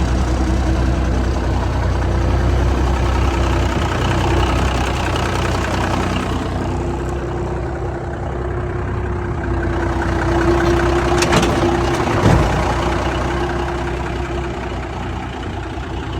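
Cummins diesel engine of a 1966 Peterbilt 288 truck idling steadily, with a few sharp clicks about eleven to twelve seconds in.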